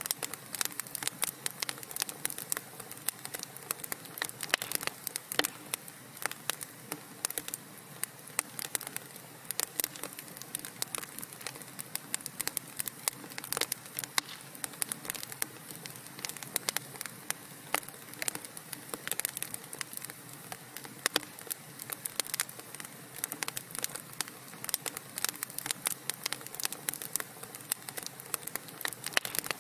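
Wood fire crackling in a fireplace: dense irregular pops and snaps, several a second, over a steady hiss of burning.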